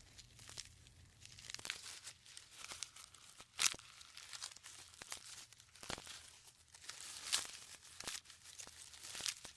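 Soft, irregular crackling and crunching: a scatter of small clicks, with louder ones about three and a half seconds in and again past seven seconds.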